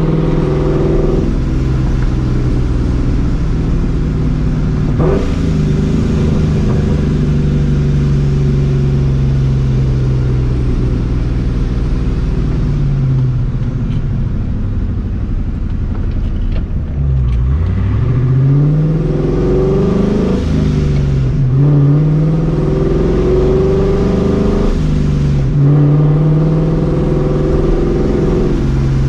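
Supercharged 4.6-litre V8 of a New Edge Mustang GT running through a catless X-pipe and Borla ATAK exhaust while cruising. Revs hold steady at first, then dip low, climb, and drop back suddenly twice with the gear changes before settling again.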